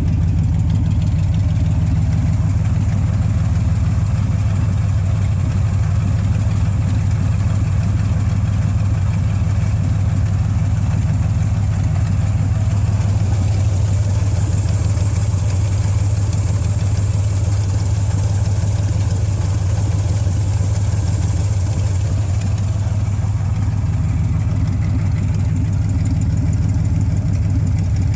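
1971 Chevrolet C10 pickup's engine idling steadily on its newly fitted carburetor, running smoothly with no revving.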